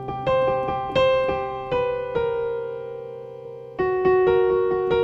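Piano playing slow, gentle chords and melody notes, each struck note ringing and fading before the next, with a louder chord coming in about four seconds in.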